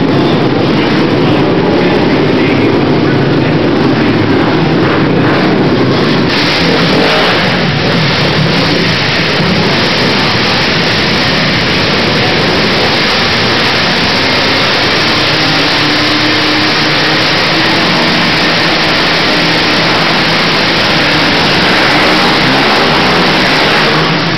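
Racing quad (ATV) engines revving up and down under hard throttle, loud and continuous. The sound turns brighter and harsher about six seconds in.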